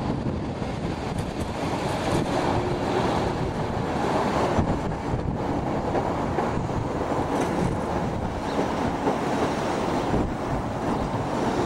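Passenger coaches of a locomotive-hauled train running past on the track: a steady rumble of wheels on rails, with wind noise on the microphone over it.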